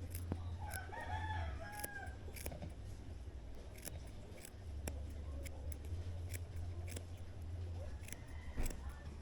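A rooster crows once, about a second in, over a low electric hum that swells and fades, with scattered sharp clicks.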